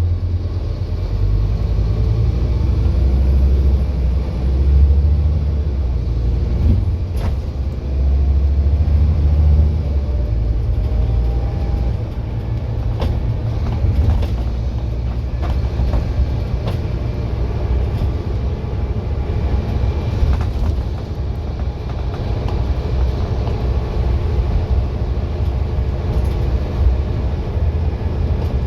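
Scania N230UD double-decker bus's five-cylinder diesel engine running with a deep, steady rumble. The rumble is heavier for roughly the first ten seconds, and short rattling clicks come through now and then.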